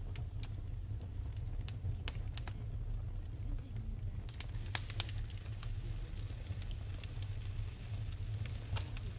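Wood fire in a fireplace crackling: scattered sharp pops over a steady low rumble, with a quick cluster of pops about halfway through.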